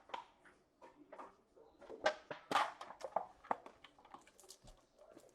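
Irregular light clicks and taps, handling noises, clustering about two seconds in.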